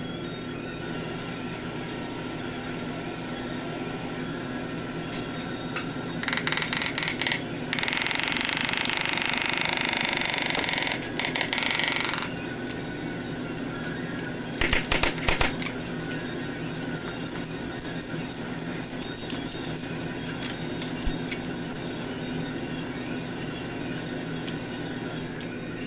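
Steady hum of a workshop machine. Over it, a loud hiss of air comes in short on-off pulses from about six seconds in, then runs steadily to about twelve seconds. A second short cluster of bursts follows a few seconds later.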